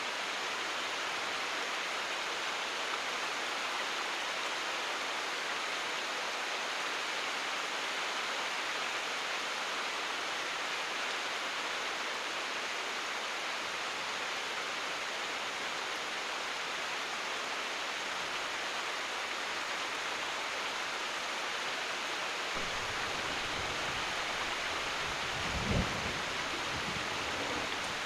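Steady heavy rain, an even hiss of falling water. In the last few seconds a low rumble of distant thunder comes in and swells briefly once before the end.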